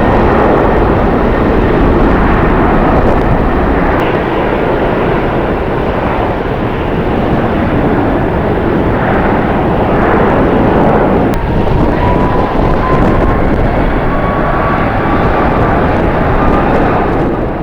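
Jet airliner engine noise at an airport, mixed with strong wind on the microphone, loud and steady. A faint whine rises slowly in pitch from about two-thirds of the way through.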